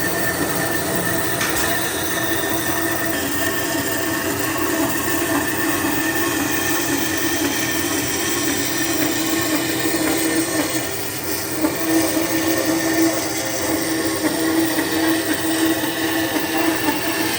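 A power tool running steadily with a high whine, dipping briefly about eleven seconds in.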